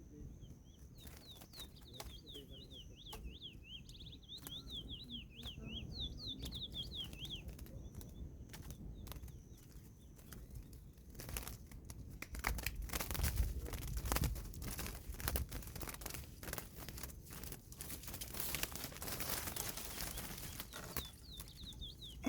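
A curió (lesser seed-finch) sings a rapid run of zigzagging notes for several seconds, then again briefly near the end. In between comes a long stretch of rustling, crinkling and clicks, loudest around the middle.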